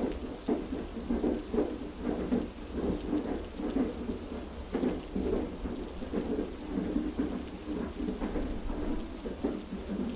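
Heavy rain falling steadily over the deep rumble of a train carriage running on rails, with frequent short knocks from the wheels on the track.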